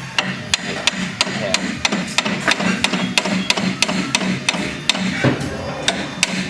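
Hammer blows on the strut's lower bracket, a steady run of sharp metallic taps about three a second, knocking the bracket into line.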